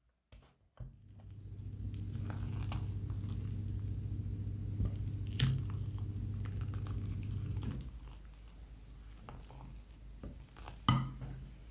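Electric hand mixer running steadily for about seven seconds, its beaters scraping and rattling in the bowl as it whips a tiramisu cream. It then stops, leaving quieter bowl and utensil handling and a sharp knock near the end.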